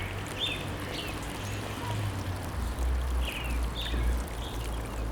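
Steady running water with a few short bird calls scattered through it.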